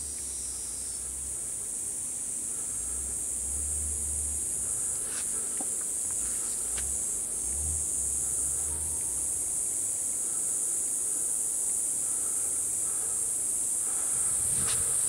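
Steady, high-pitched chorus of night insects, a continuous shrill drone with a few faint ticks and a low rumble under it.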